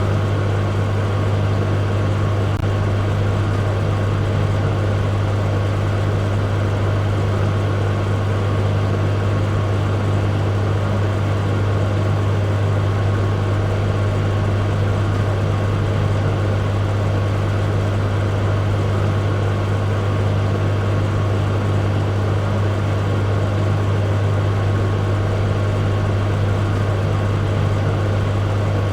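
A microwave oven running: a steady low hum with a fainter, even whir over it.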